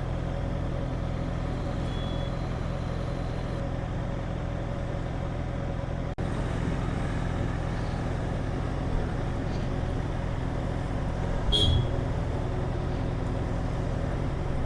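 An engine idling steadily with a low, even hum. About eleven and a half seconds in there is a brief high tone with a low knock.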